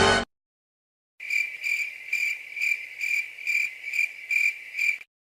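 Cricket chirping sound effect: a regular series of about nine short, high chirps, roughly two a second, starting about a second in and stopping shortly before the end. It is the stock 'crickets' cue used to mark an awkward silence.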